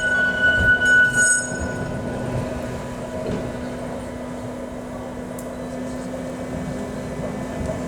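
Heritage electric tram running on rails, a steady low hum over a rumble, with high ringing tones dying away in the first couple of seconds.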